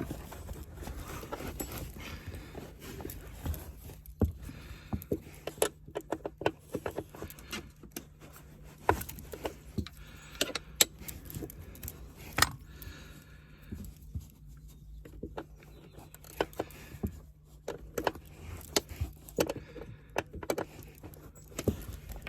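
Metal hand tools clinking and tapping while working at a bolt under the van's floor carpet: many irregular sharp clicks and knocks, with a faint steady low hum behind them.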